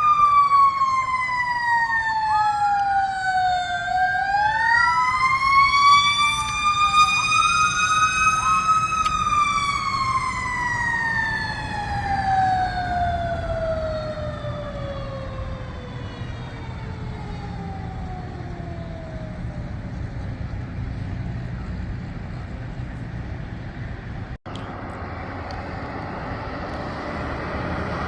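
Fire truck sirens wailing, two overlapping in the first several seconds, then one winding down in a long, slow fall in pitch until it fades out, over a steady low rumble of truck engines.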